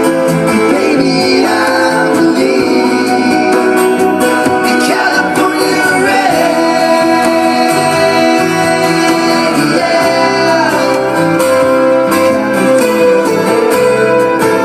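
Acoustic guitar strumming under sung vocal lines without clear words, with drawn-out notes that slide in pitch.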